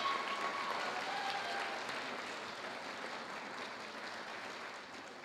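Audience applauding, the clapping slowly fading over the last few seconds.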